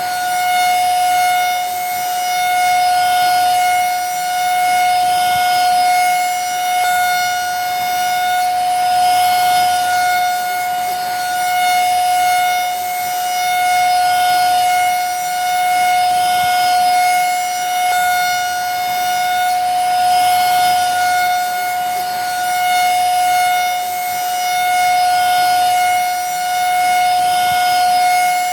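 Vacuum cleaner running steadily: a constant motor whine over a rushing hiss of air, gently swelling and easing about every two seconds.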